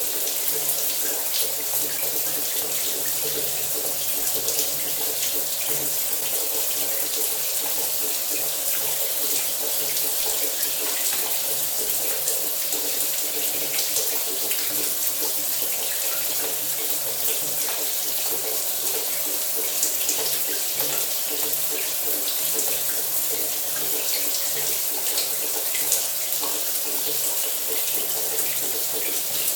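Shower running steadily: water spraying and splashing in a continuous hiss with many small droplet spatters, and a faint low hum underneath.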